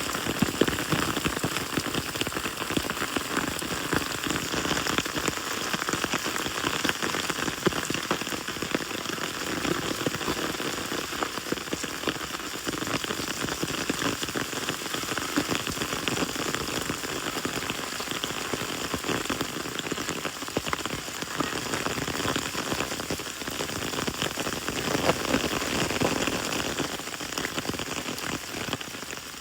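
Heavy rain mixed with hailstones falling onto a roof covered with dry grass: a dense, steady stream of countless small hits.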